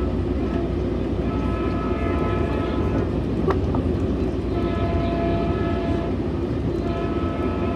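Metrolink commuter train running, heard from inside a passenger car: a steady rumble of wheels on rail. Over it the train horn sounds in a series of long chord-like blasts with short gaps, the pattern of a horn sequence for a grade crossing.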